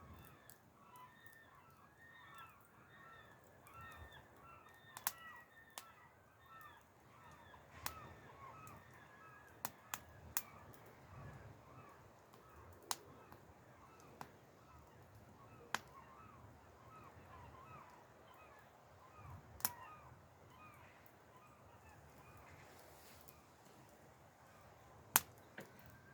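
Campfire wood crackling with sharp pops every second or two, the loudest near the end. A bird calls over and over in short quick notes through the first half.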